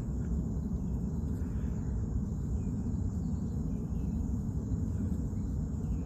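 Steady high-pitched insect chorus in swamp woodland over a low, even rumble.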